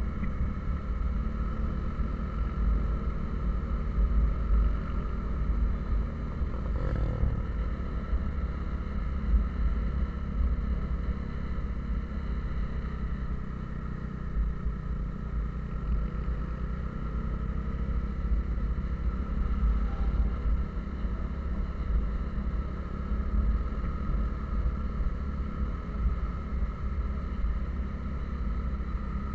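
Steady low rumble of a moving vehicle, engine and road noise running evenly, with one short knock about seven seconds in.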